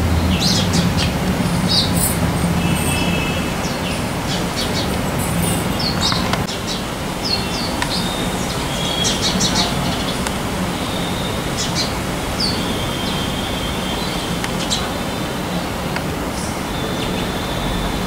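Small birds chirping, short high calls repeated again and again with a few brief trills, over a steady low rumble of road traffic.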